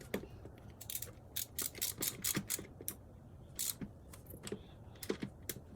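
Ratchet wrench clicking in short, irregular runs while intake manifold bolts are tightened.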